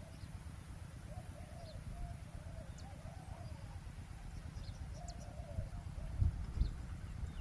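Spotted dove cooing in a few short phrases, over a low rumble of wind on the microphone, with faint chirps from small birds. Two low thumps come near the end.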